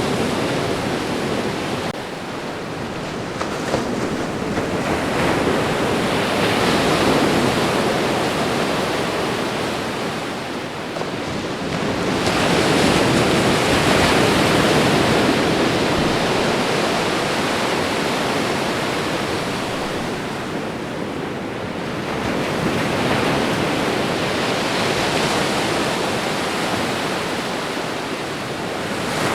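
Ocean surf: waves breaking and washing up the shore in a continuous hiss that swells and fades as each wave comes in, about every eight to ten seconds. The biggest swell comes a little before halfway.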